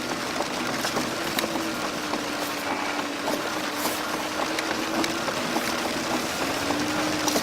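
Vehicle being driven in the rain: a steady engine drone under an even wash of noise, with scattered light ticks.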